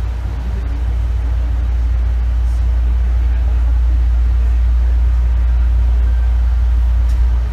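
Very loud running sound inside an Izukyu 8000 series (ex-Tokyu 8000) motor car, KuMoHa 8157, on the move: a heavy, steady low rumble from the running gear, growing a little louder over the first few seconds.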